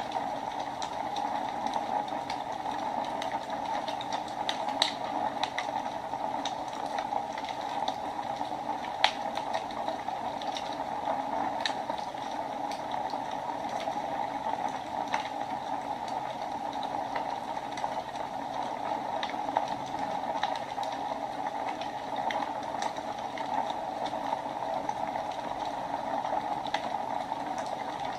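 Wood fire burning in a fireplace: a steady hiss of flames with irregular sharp crackles and pops.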